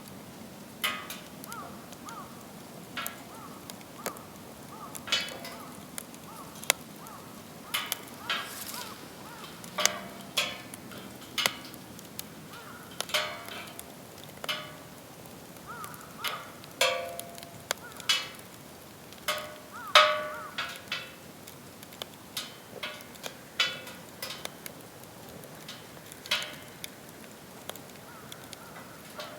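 Wood fire burning in a fire pit, crackling with irregular sharp pops, a few of them loud, over a low steady hiss.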